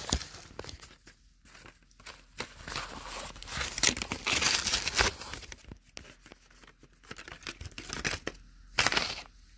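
Toy packaging being torn open and crinkled by hand in irregular bursts of tearing and rustling, with sharp clicks and short pauses.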